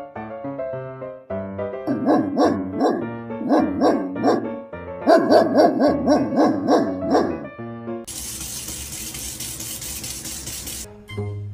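A dog barking rapidly, about four barks a second, over light plucked background music. A steady hiss follows for about three seconds and cuts off suddenly.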